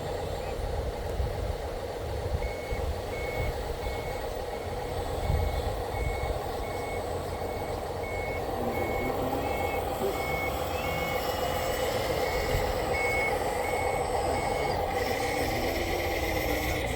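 Reverse-warning beeper on an RC construction machine, giving a steady run of evenly spaced high beeps, about three every two seconds, over a steady mechanical drone. The beeping starts a couple of seconds in and stops a couple of seconds before the end.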